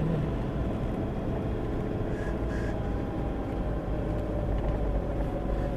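Four-wheel drive running slowly over a soft track on tyres let down to about 10 psi: steady engine and road noise.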